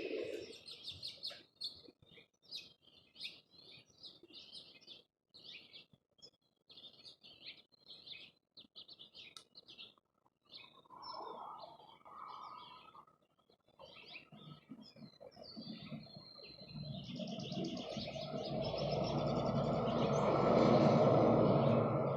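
Small birds at a feeder chirping in quick, short notes. In the last third a broad rushing noise swells up, louder than the birds, and peaks just before the end.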